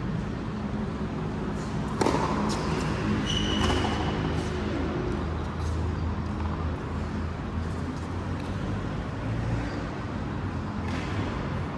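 Racket-sport play: a sharp loud knock about two seconds in, followed by a few lighter knocks and a short high squeak, over a steady low rumble.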